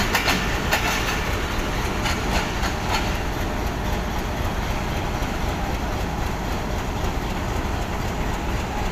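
Passenger train wheels clacking over rail joints for about the first three seconds, then a diesel locomotive's engine running steadily at idle.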